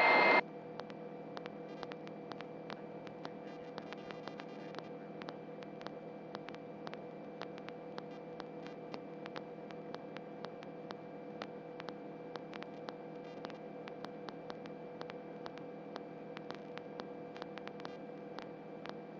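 Faint steady electrical hum with light crackling clicks on the helicopter's radio and intercom audio feed, heard while nobody is transmitting.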